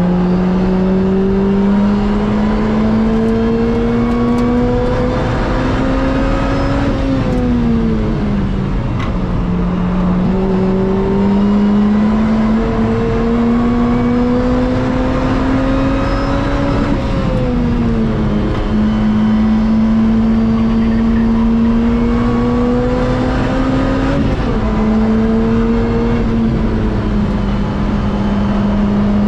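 Lotus Exige S's supercharged four-cylinder engine, breathing through a Larini Group B exhaust, heard from inside the cockpit under hard acceleration on track. The engine note climbs steadily in pitch, drops back and climbs again three times.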